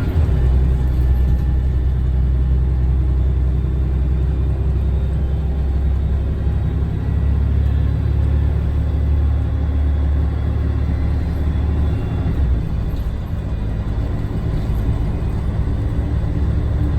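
Scania DSC1171 11-litre six-cylinder diesel of a Scania L113TRB bus running under way, a steady deep drone. About twelve seconds in the low note drops and the sound eases briefly.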